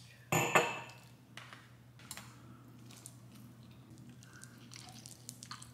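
A person eating close to the microphone: a sudden loud noise lasting about half a second, less than a second in, then soft chewing with scattered small clicks.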